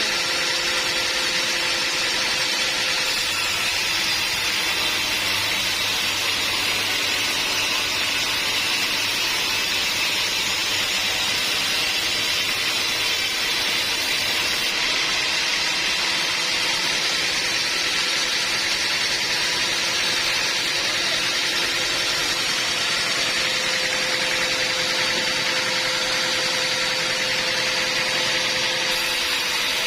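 Sawmill machinery running steadily: a continuous mechanical drone and hiss with a few steady tones, shifting slightly twice.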